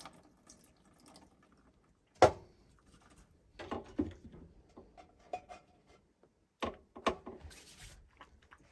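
Dishes and containers being handled during food preparation: a sharp knock about two seconds in, then scattered clicks and knocks, and a brief hiss near the end.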